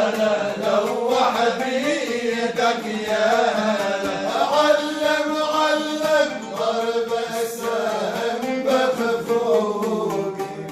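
Male folk singing in Arabic: a voice holding long notes that waver and glide, over music.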